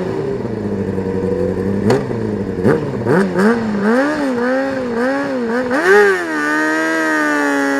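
Racing motorcycle engine revving hard, its pitch swinging up and down several times with a couple of sharp cracks, then holding high and climbing slowly near the end.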